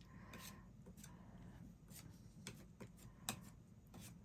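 Faint, irregular light taps and soft scraping of paint being mixed on a palette, a few scattered clicks over a quiet room hum.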